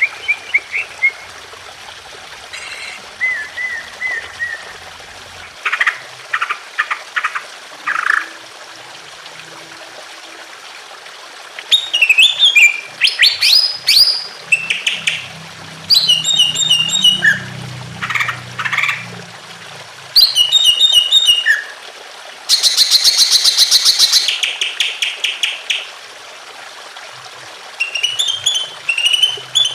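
Cucak ijo (green leafbird) singing in bursts of whistled chirps and fast trills, with a loud buzzy rattle about two-thirds of the way through. A steady trickle of water runs underneath.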